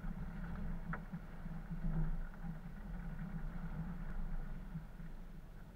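A 4x4's engine running steadily at low revs, with a couple of faint knocks, dropping slightly in level near the end.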